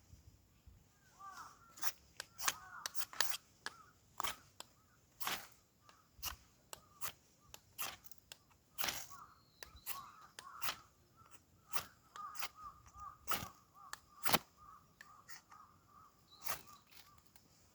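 Irregular sharp cracks and scrapes, one to a few a second, with a bird's repeated wavering call that runs more steadily through the second half.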